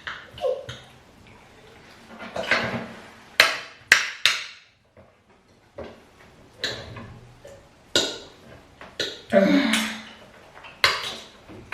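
Dishes and cutlery at a meal table: a run of sharp clinks and knocks of utensils on plates, with softer scraping and rustling between them.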